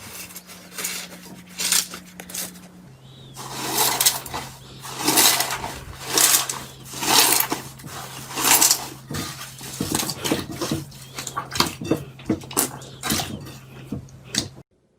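Slime being squeezed and pressed by hand, a run of sticky, crackling squelches and pops that grows busier a few seconds in and stops abruptly near the end.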